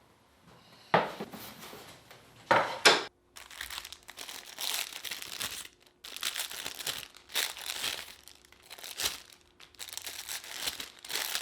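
A few sharp knocks, then wrapping crinkling and tearing in repeated bursts as new Japanese chisels are unpacked.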